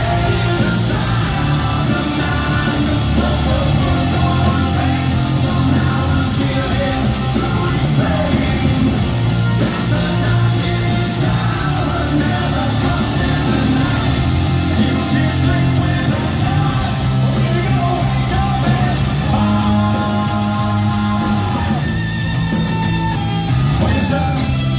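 Live hard rock band playing through an arena PA: distorted electric guitars, bass and drums with a singer's voice, recorded from the crowd so the sound is loud and compressed.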